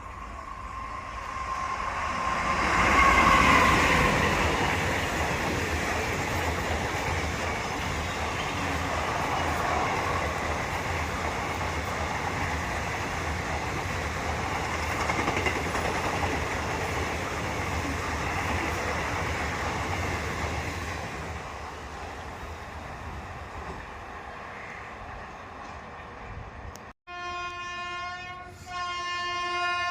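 Indian Railways express train passing at high speed: the rush and rumble of coaches on the rails, loudest a few seconds in, then fading over several seconds. Near the end, after a sudden break, a train horn sounds a long, steady chord.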